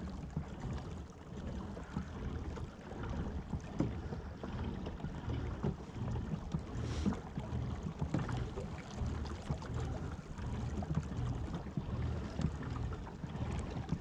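Water splashing and lapping against a kayak's hull as it is moved across the river, with a steady low rumble underneath and many small irregular ticks.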